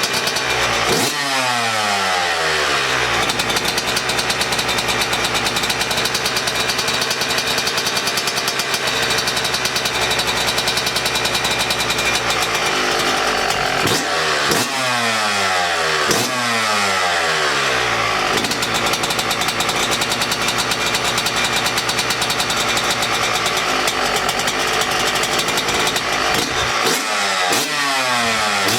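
2018 Yamaha YZ125 two-stroke single-cylinder engine running on its freshly rebuilt top end, idling with a few throttle blips whose revs fall back, about four times.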